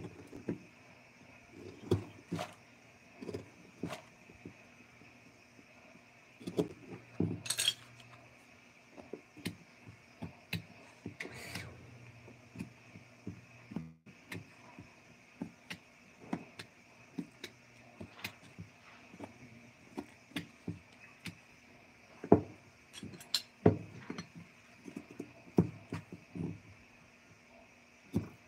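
Irregular light taps, knocks and clinks, about one or two a second, from hand tools and small hard objects being handled at work on a bench, over a faint steady hum.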